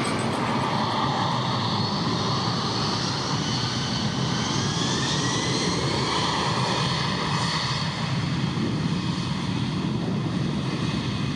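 Airbus A340's four turbofan engines at takeoff power as the jet accelerates down the runway: a steady jet engine noise with a faint whine that rises slowly in pitch.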